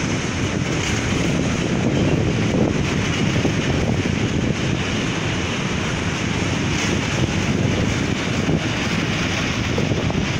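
Freight train of bogie tank wagons rolling past, a steady rumble of steel wheels on rails.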